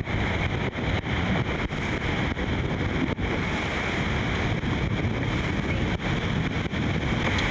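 Steady roar of rushing water from the Iguazu waterfalls, with wind buffeting the microphone.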